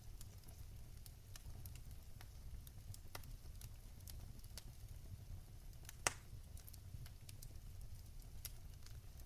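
Fire burning in a fireplace, crackling with scattered sharp pops over a low steady rumble. The loudest pop comes about six seconds in.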